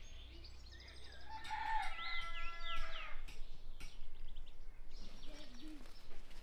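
A rooster crowing once, starting about one and a half seconds in, with small birds chirping faintly.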